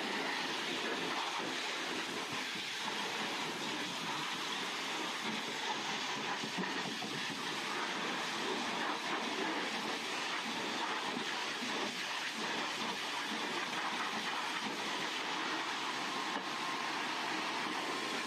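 Steady rushing hiss from car wash equipment running.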